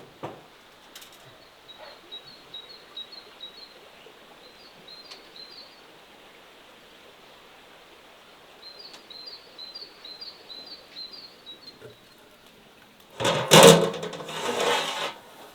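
Small songbird chirping in quick repeated phrases over a steady outdoor background hiss. About 13 seconds in, a loud, noisy burst lasting about two seconds, the loudest sound here.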